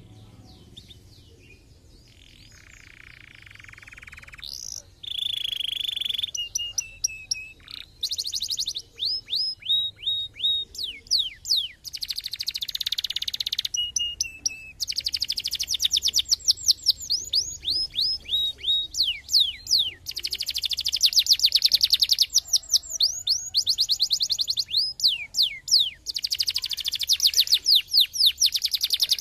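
Canary singing a long, varied song of fast trills and rapid downward-sweeping whistled notes with a few held tones, soft for the first few seconds and loud from about five seconds in.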